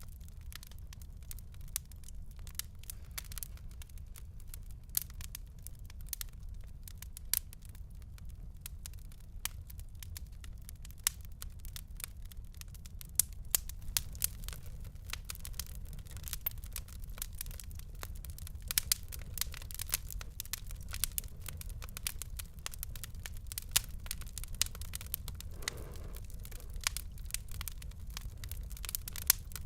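Wood fire in a fireplace crackling, with frequent sharp pops and snaps, a few of them louder, over a low steady rumble.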